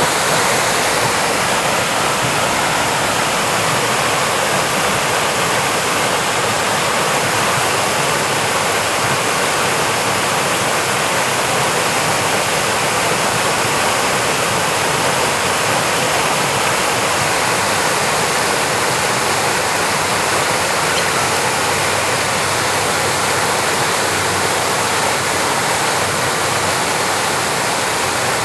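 Waterfall rushing in a steady, loud, unbroken wash of water noise.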